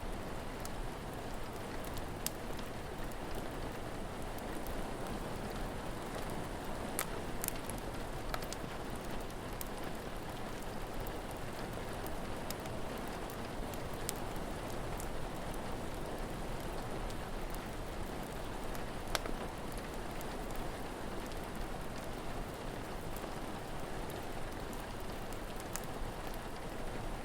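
Steady rain with a wood fire crackling, sharp pops scattered irregularly through it.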